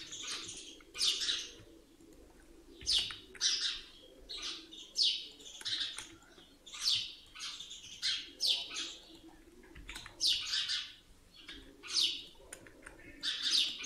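A small bird chirping repeatedly, with short high chirps, often in pairs, coming every second or two over a faint steady low hum.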